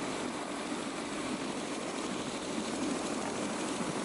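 Helicopter engine and rotor running steadily while parked on the snow, a continuous even noise.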